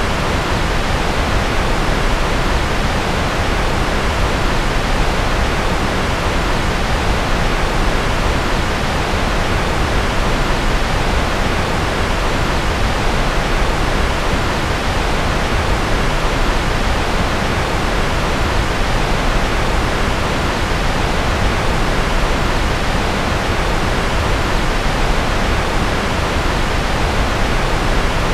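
Steady generated noise track: an even, unchanging hiss, fuller in the low end than the highs.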